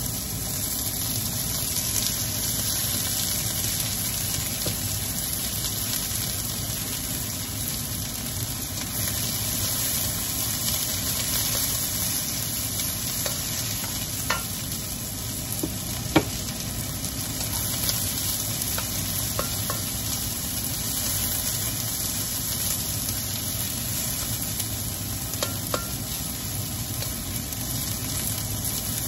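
Sliced onions sizzling in oil in a wok while a nylon slotted spatula stirs them, a steady frying hiss with a few sharp taps and scrapes of the spatula against the pan, the loudest about sixteen seconds in.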